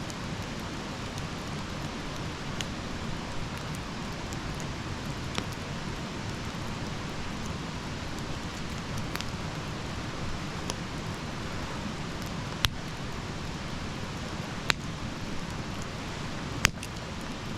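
Wood fire burning: a steady hiss with sharp crackling pops every second or two, three of them louder in the second half.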